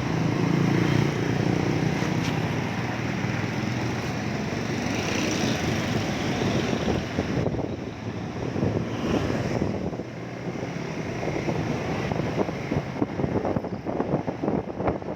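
Motorcycle engine running at road speed with wind rushing past the microphone. From about halfway through, the wind buffeting grows choppy and uneven.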